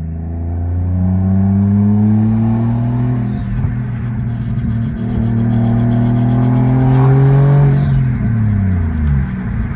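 Turbocharged 1JZ-GTE straight-six in a Lexus IS300 under hard acceleration. The revs climb, drop sharply at a gear change about three seconds in, and climb again through the next gear. Near the end they fall away as the throttle is lifted.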